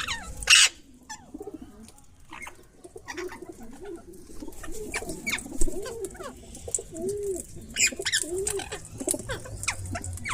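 Birds calling: short, sharp, high parrot calls throughout, and a series of low, repeated cooing notes from about halfway through. There is a loud, short burst just after the start.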